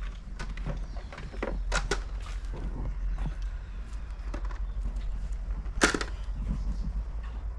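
Irregular knocks and clacks, with one sharp, louder crack about six seconds in.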